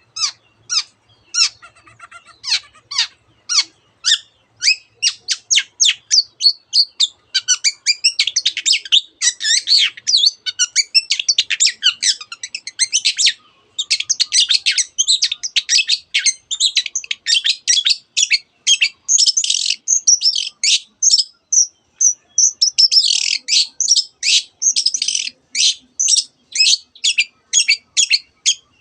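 Long-tailed shrike (cendet) singing nonstop: a quick run of sharp, high repeated notes that thickens after a few seconds into dense chattering and trilled phrases, its song filled with mimicked canary and other birds' calls.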